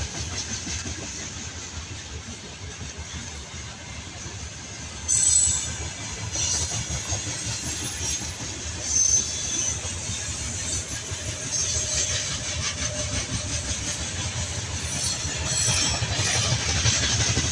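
Freight train of gondola wagons rolling past: a steady rumble and clatter of steel wheels on the rails, with a sudden louder moment about five seconds in and another about nine seconds in, and brief high wheel squeals now and then.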